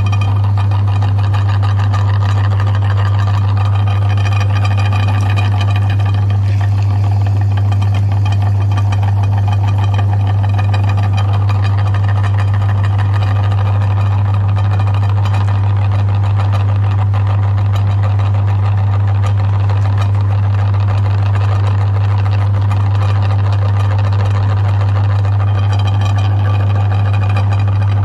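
Electric meat grinder's motor running steadily with a loud, constant low hum.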